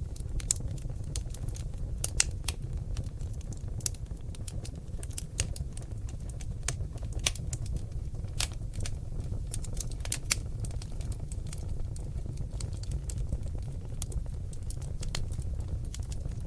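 Seasoned oak logs burning in a fireplace, crackling with irregular sharp snaps and pops over a steady low rumble of the flames, with a few louder pops scattered through.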